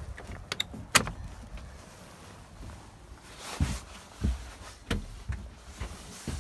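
Knocks and thumps of someone moving about and handling things, with a sharp click about a second in and several dull thumps in the second half.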